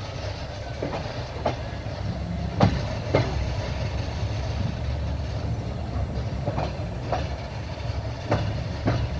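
Train wheels running over the rails with a steady low rumble, clacking over rail joints in pairs about half a second apart, a few times.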